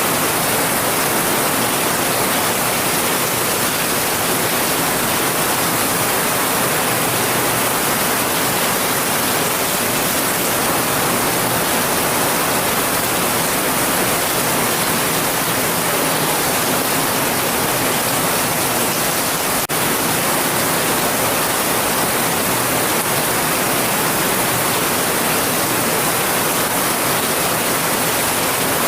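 Heavy rain falling in a steady, dense hiss with no breaks, apart from one brief dropout about twenty seconds in.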